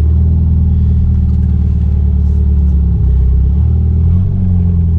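The Mitsubishi G54B 2.6-litre turbocharged four-cylinder engine of a Chrysler Conquest runs steadily and loudly. Its pitch and level dip briefly about three and a half to four seconds in, then come back up.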